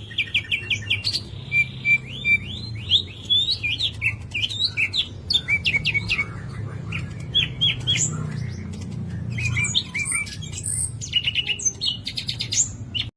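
A songbird singing a fast, varied song of sharp chirps, quick upward sweeps and rattling trills, with brief pauses, over a steady low hum.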